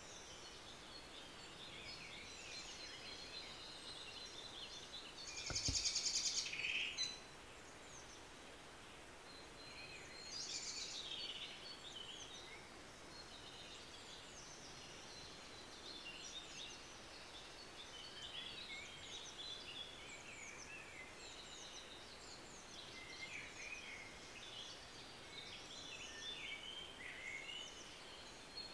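Birds chirping and singing in a chorus of short calls, with a louder rapid trill from a nearer bird about five seconds in and another burst of song around ten seconds.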